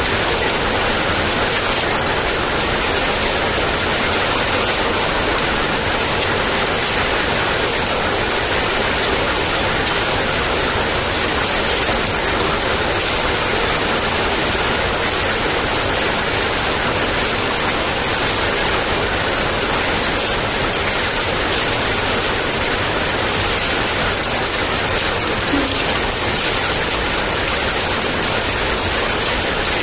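Heavy rain falling in a steady downpour, an even hiss with no breaks or separate impacts.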